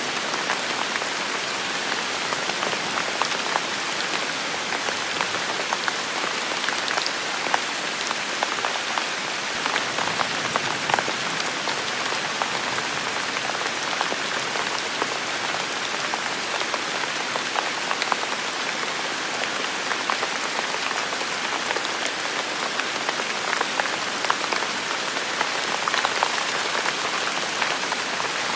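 Heavy rain falling steadily, a dense hiss with many individual drops ticking and pattering on nearby surfaces.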